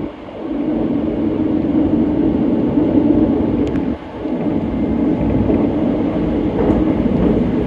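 Hanshin electric train running at speed over a steel truss bridge, heard from inside the car: a steady rumble of wheels on rails, with two brief dips in loudness, one at the start and one about four seconds in.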